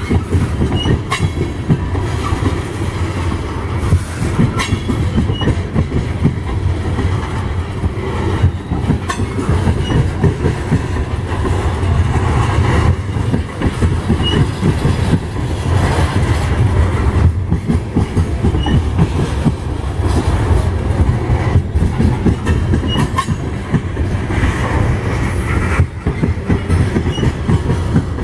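A coal train's loaded-or-empty steel-wheeled coal cars rolling steadily past close by: a continuous heavy rumble of wheels on rail, with occasional clicks as wheels cross the rail joints.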